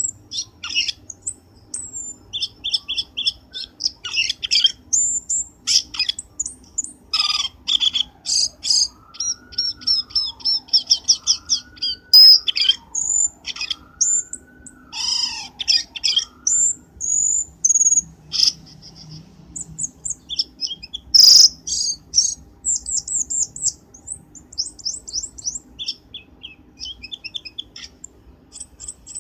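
Cucak keling bird calls, used as a lure: rapid bursts of high, sharp chirps and short trills in quick succession. A slower wavering whistle runs underneath for a stretch in the middle.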